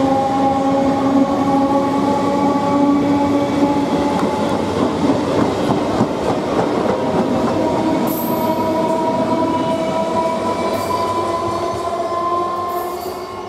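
Electric multiple unit (EMU) local train running through a station at speed without stopping: steady wheel-and-rail noise with a steady whine over it, fading as the last coach passes and the train draws away near the end.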